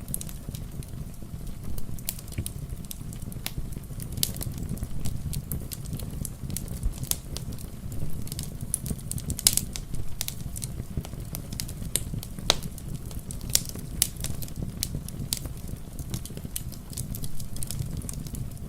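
Wood fire crackling, with sharp, irregular pops over a low steady rumble, and rain pattering.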